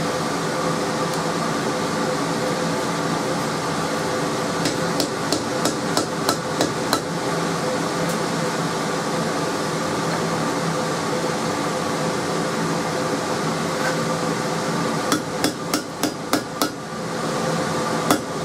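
Hand hammer striking hot coil-spring steel on an anvil in two bursts of about half a dozen quick blows each, the first about five seconds in and the second near the end. A steady mechanical hum runs underneath.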